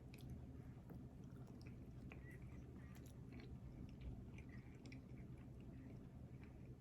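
Faint close-up chewing of food, with small scattered mouth clicks.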